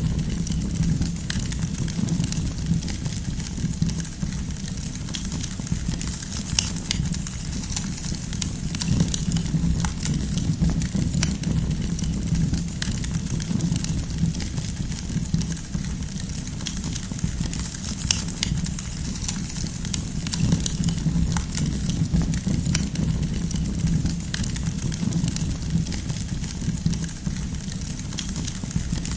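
Campfire of firewood burning, with a steady low rumble beneath frequent irregular sharp crackles and pops.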